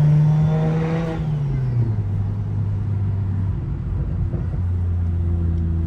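BMW 335i's single-turbo N54 straight-six engine and exhaust heard from inside the car, the engine note dropping about a second in as the revs fall, then running steadily at lower revs.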